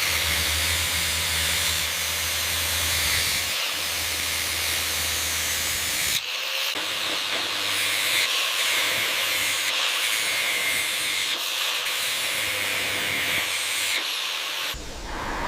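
A steady, loud hiss, with a low hum beneath it for about the first six seconds.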